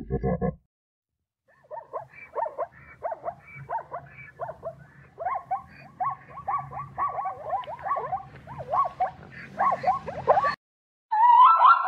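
Zebra calling: a long series of high, barking yips, each dropping in pitch, coming faster toward the end and cutting off suddenly about ten and a half seconds in. A short low grunt in the first half second comes before a brief gap.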